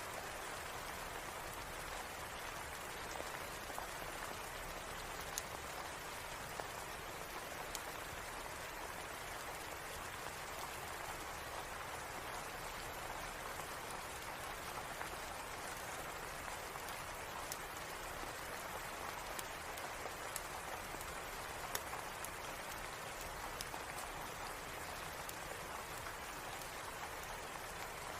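Steady rain falling in an even hiss, with scattered sharp clicks throughout.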